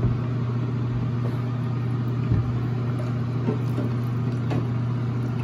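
A steady low mechanical hum runs throughout, with a few soft knocks, one about two seconds in and others later.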